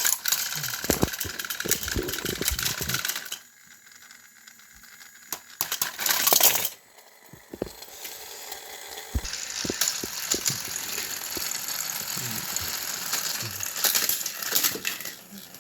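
Battery-powered Thomas & Friends toy engines rattling and clattering along plastic track, with many sharp clicks and knocks. The noise dies down twice and there is a short loud burst around the middle.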